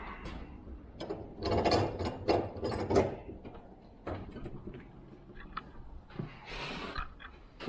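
A 24-inch chainsaw guide bar being set into a metal bench vise and clamped: a quick run of clattering metal clicks and knocks about one and a half to three seconds in, then scattered lighter clicks.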